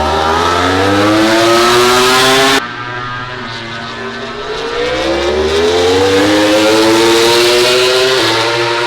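MotoGP racing motorcycle engine at full throttle, its note climbing steadily in pitch and then cutting off sharply about two and a half seconds in. From about four seconds another rising engine note builds, with a sudden drop in pitch near the end as the bike shifts up a gear.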